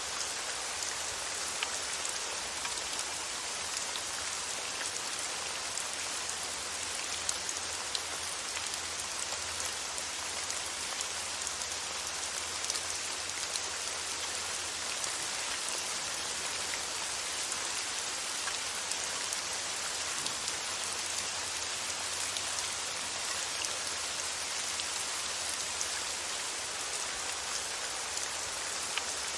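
Steady rain falling on a surface, an even hiss with scattered single drop ticks.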